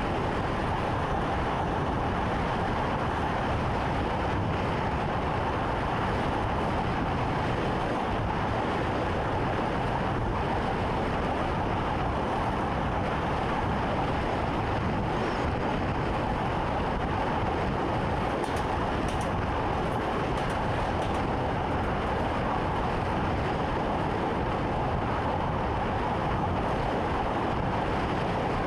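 Train running along the track, heard from inside the driver's cab: a steady, even rumble with a constant mid-pitched hum.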